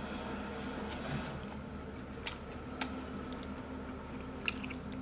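Chewing a sea snail, with a few sharp wet mouth clicks spaced over a few seconds against a steady low hum.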